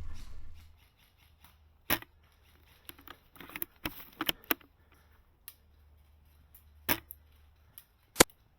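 Airsoft guns firing on the field: about eight scattered single sharp pops at irregular intervals, the loudest one near the end, over a faint steady low hum.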